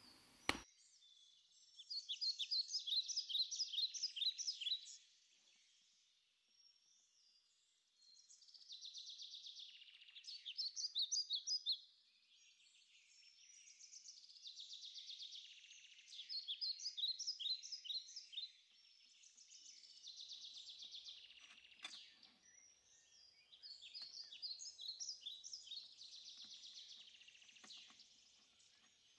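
A songbird singing: about five high-pitched phrases of rapid chirps, each lasting a few seconds with short pauses between, over faint outdoor background, with a few faint clicks in the second half.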